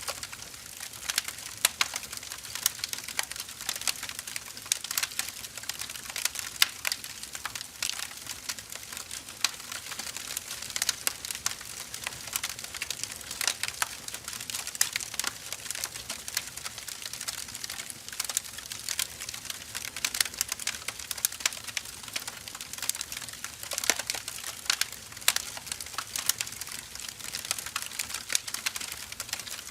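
Firewood fire crackling: dense, irregular snaps and pops over a steady hiss of burning wood.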